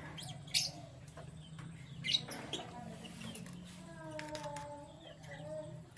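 Canaries chirping: two short, sharp, high chirps about half a second and two seconds in, then softer, lower calls that slide down in pitch.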